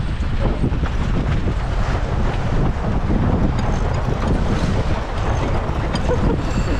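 Strong wind buffeting the microphone aboard a sailing yacht, over the rush of choppy water along the hull.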